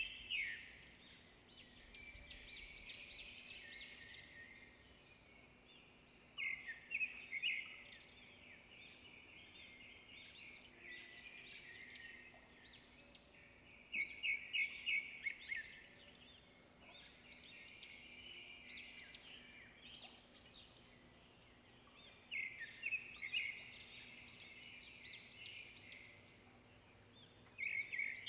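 A songbird singing: phrases of rapid high chirps and trills, returning every several seconds, over a faint steady hum.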